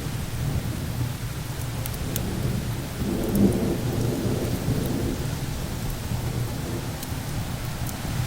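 Thunderstorm ambience: a continuous low rumble of thunder under a steady hiss, swelling briefly about three seconds in. A few sharp, faint crackles of a wood fire sit on top.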